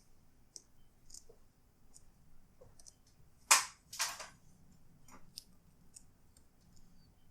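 Small clicks and taps of parts being handled during laptop screen reassembly as the webcam module is pressed into place, with two louder scraping clicks a little past halfway, about half a second apart.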